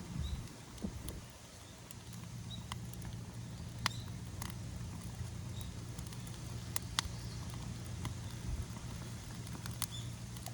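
Rubbish bonfire crackling, with scattered sharp pops at irregular intervals over a steady low hum. The fire is burning poorly, the rubbish most likely damp.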